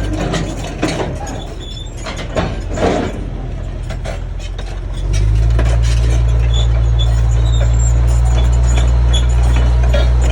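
Heavy diesel engine running, with several metallic knocks and clanks in the first few seconds. About halfway through, the engine steps up to a louder, steady drone, as when it is revved or put under load.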